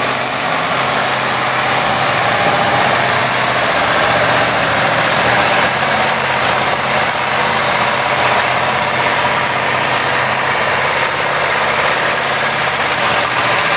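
Mud bog truck's engine running loud and steady with a rough, rapid clatter.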